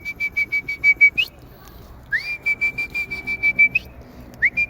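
A high whistle sounded in pulsing blasts of about a second and a half, each sliding up at the start, holding one pitch with a quick flutter of about ten pulses a second, and flicking up at the end; a third blast begins near the end.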